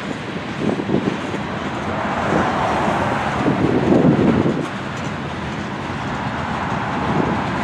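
Freight train hopper cars rolling past, their wheels rumbling and knocking on the rails. A car passes on the road alongside, its noise swelling to the loudest point about four seconds in and dropping off sharply just after.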